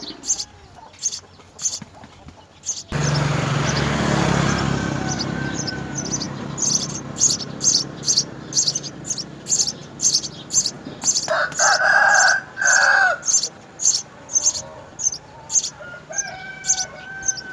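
House sparrows chirping in short high notes, over and over, about two or three a second. A rooster crows loudly in the background about eleven seconds in, and gives a shorter call near the end. About three seconds in, a loud rushing noise with a low hum starts suddenly and slowly fades.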